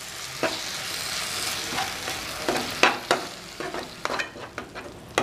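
Freshly added tomato paste sizzling in hot oil with onion masala in a non-stick pan while a metal spoon stirs it, the spoon clicking and scraping against the pan a few times. The sizzle softens near the end.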